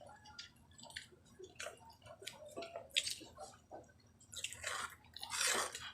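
Wet chewing and lip smacks of a person eating soft eggplant omelette and vinegared eggplant close to the microphone, as scattered short clicks, with a longer hissing noise near the end.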